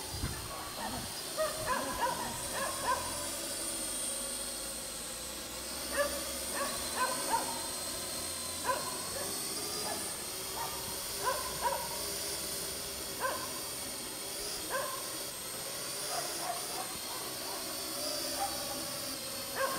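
Parrot AR.Drone 2.0 quadcopter's rotors whining steadily in flight, with short sharp yelps every second or two over it.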